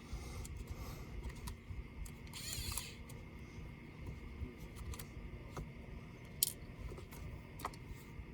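Scattered small clicks and taps of laptop parts and tools being handled during disassembly, with a short scraping rasp about two and a half seconds in and one sharper click a little past six seconds.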